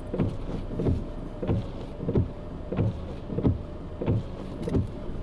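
Car windscreen wipers sweeping on a fast setting, about three sweeps every two seconds, over a steady hum of the car heard from inside the cabin.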